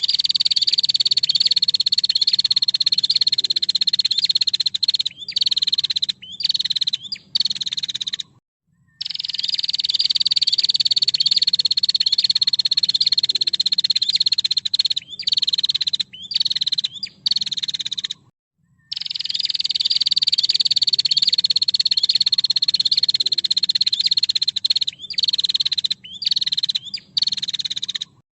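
Female prinia (prenjak) calling: a loud, fast buzzy trill that slides slightly down in pitch for several seconds, then breaks into short choppy bursts. The same phrase sequence repeats three times with brief silent gaps.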